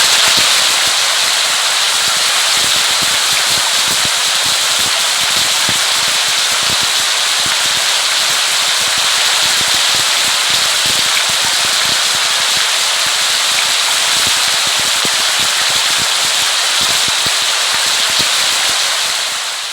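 Steady, heavy rain: a dense hiss of falling rain with many small drop ticks crackling through it, fading out at the very end.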